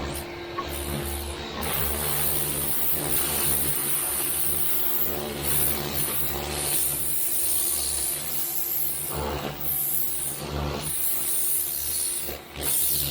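Sun Joe electric pressure washer running, its motor-driven pump humming under the hiss of the water jet spraying onto a deck. The spray briefly drops out near the end, then resumes.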